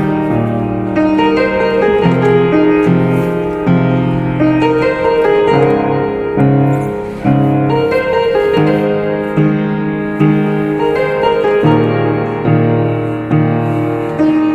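Solo piano music, with chords and melody notes struck one after another at a gentle pace.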